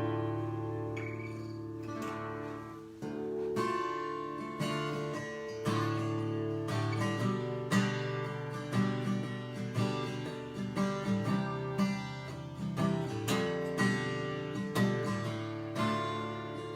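Guitar tuned down to drop D playing a slow, dark song intro: long ringing chords at first, then a run of quicker picked notes.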